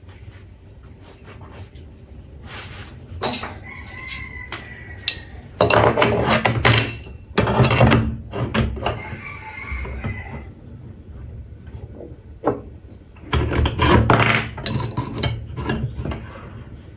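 Hand work on wood and tools: irregular knocks, clicks and scraping, with two louder stretches of rubbing or rasping, one about six to eight seconds in and a shorter one near fourteen seconds.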